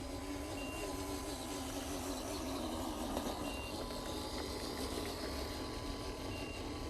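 Radio-controlled model truck's motor and gearbox whining as it labours under a full load, over a low rumble of wind on the microphone. Three short high beeps sound about three seconds apart.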